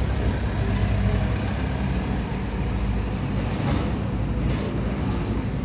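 Diesel engine of heavy construction machinery, likely an excavator, running steadily with a low drone. A couple of short knocks come about four seconds in.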